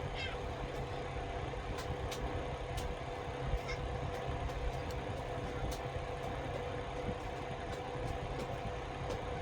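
A steady mechanical hum with a constant tone over a low rumble, with a few faint clicks scattered through it.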